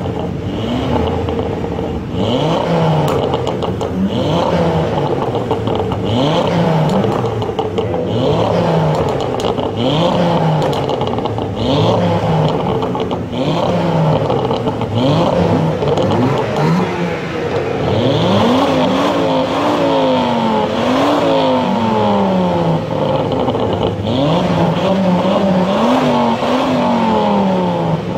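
Ford Focus ST Mk2's turbocharged five-cylinder engine being revved while parked: short throttle blips about once a second, then longer, higher revs in the second half.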